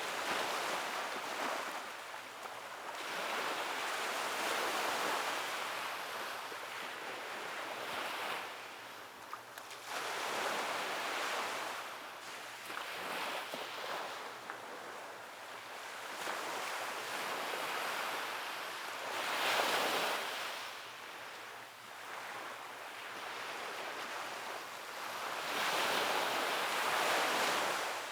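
Ocean waves breaking and washing up a beach, a steady hiss of surf that swells and fades with each wave, every few seconds.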